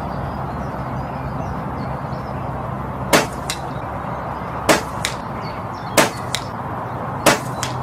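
Four pairs of sharp cracks about a second and a half apart, each a louder crack followed a third of a second later by a lighter one, over a steady low hum.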